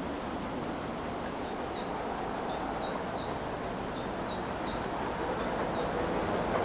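A small bird singing a two-note phrase over and over, short high notes alternating with a downward slur, about three notes a second, for around five seconds. Under it is a steady rushing noise that slowly grows louder.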